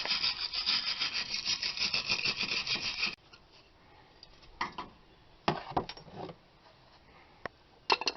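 Hand wire brush scrubbing rusty brake-hub metal in quick back-and-forth strokes, stopping about three seconds in. A few scattered sharp metallic clicks and knocks follow.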